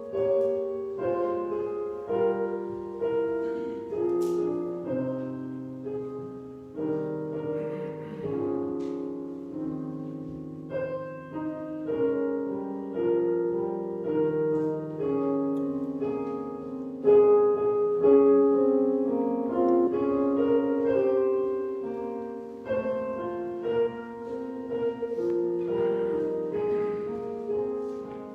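Piano playing a slow prelude, with chords struck about once a second and left to ring and fade.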